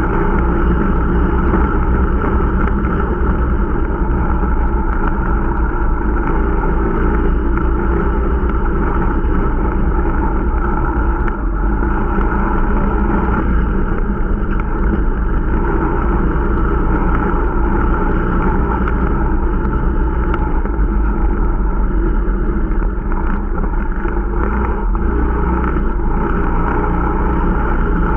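Irbis Dingo T125 snowmobile's small 125 cc four-stroke single-cylinder engine running steadily under way, with track and motion noise, while the new machine is being run in.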